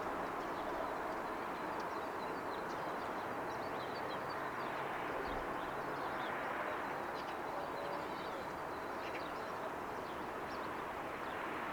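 Steady distant hum of a city and ocean heard from high above, with small birds chirping faintly and often.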